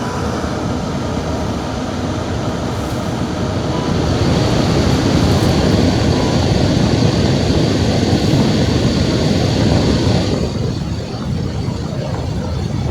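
Car driving on a snowy mountain road: a steady rumble of tyres and engine that grows louder about four seconds in and eases back about ten seconds in.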